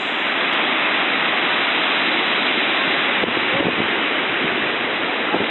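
Floodwater rushing through a small stream swollen into a torrent by an upstream dam burst, a steady, unbroken rushing noise.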